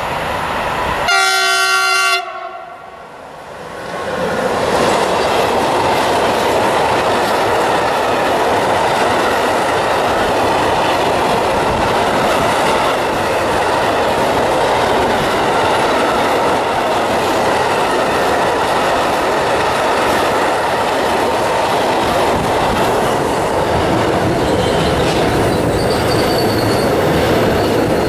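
An electric freight locomotive sounds its horn once, about a second long, about a second in. From about four seconds in, a freight train of tank wagons rolls past close by with a steady noise of wheels on the rails.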